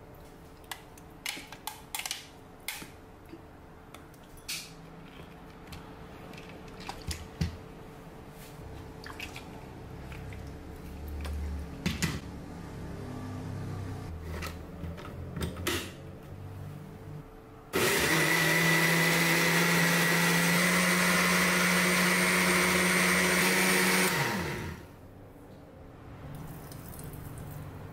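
Blender running at full speed for about six seconds while blending an avocado smoothie, then spinning down with a falling pitch. Before it come light clicks and knocks from kitchen things being handled.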